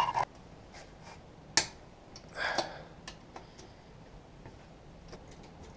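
Hand tools being handled: a short clatter at the start, a sharp metallic click about one and a half seconds in, a brief scrape a second later, then a few faint ticks.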